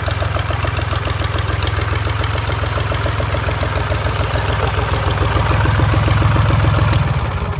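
Lomatec 21 hp marine diesel engine running steadily with an even, rapid firing beat, growing a little louder a few seconds before the end, then shut off just before the end and running down.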